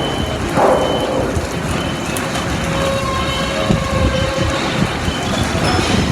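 Wind gusting on the microphone, uneven low buffeting over a steady rushing noise, with a faint held tone for a couple of seconds in the middle.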